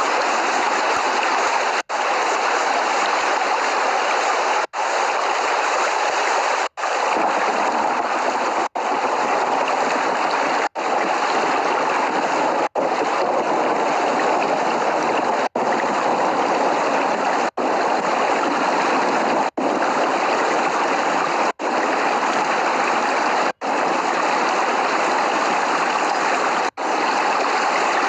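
Steady heavy rain, an even rushing hiss, cut by very short dropouts about every two seconds.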